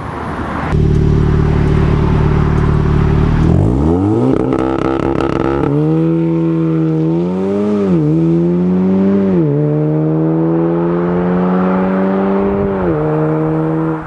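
Audi S3 8V's turbocharged 2.0-litre four-cylinder held at steady high revs, then launching and accelerating hard, its pitch rising and dipping briefly twice at the gear changes. Near the end it comes off the throttle and the revs drop.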